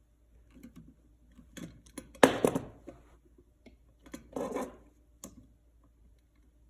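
Hand tools and copper wire being handled at an outlet's terminals: a few short metallic clicks and scrapes, the loudest about two seconds in.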